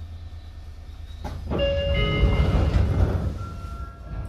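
Onboard running sound of a Sotetsu 8000 series electric train: a steady low rumble, then a sudden louder rushing noise about a second in that dies down after about two seconds. Several steady whining tones from the Hitachi IGBT-VVVF inverter and traction motors ride over it.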